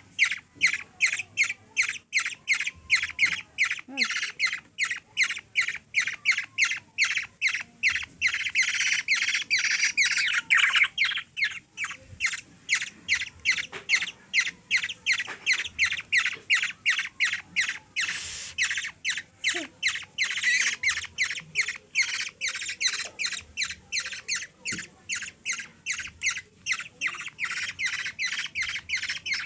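Young black-naped oriole giving harsh, squawking begging calls over and over, about two or three a second without a break.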